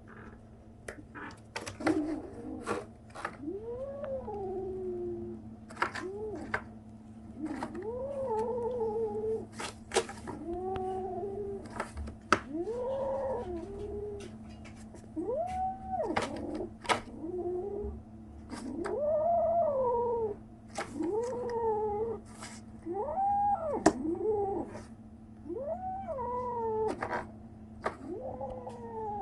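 37-day-old kitten crying over and over in long, drawn-out calls that rise and fall in pitch, about one every two seconds. Sharp clicks come between the calls.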